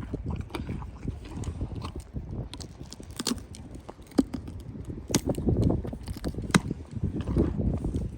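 Irregular crunching and clicking, with a low rumble underneath.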